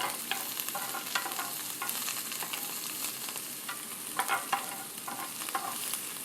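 Chopped celery, ginger and coriander frying in ghee in a pan, sizzling steadily, while a utensil stirs them with frequent short scrapes and clicks against the pan.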